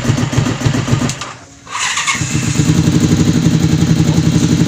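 Honda VFR400 V4 engine idling, then cut off for about half a second and restarted on a single press of the starter, catching at once and idling steadily again. The quick start and steady idle show the hard-start and no-idle fault is cured.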